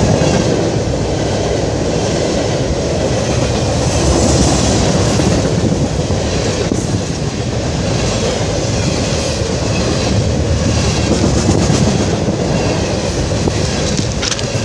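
A long freight train's cars rolling past, their steel wheels rumbling and clattering steadily over the rails.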